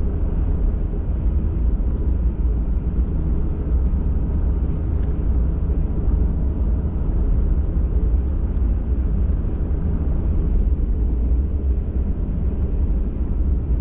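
Pickup truck driving at a steady pace, heard from inside the cabin: an even, unbroken engine and tyre rumble, low in pitch.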